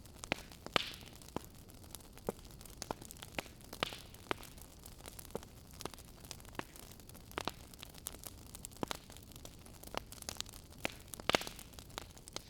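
Wood fire crackling in a fireplace: irregular sharp snaps and pops, several a second, with a louder pop about a second in and another near the end, over a soft steady hiss of burning.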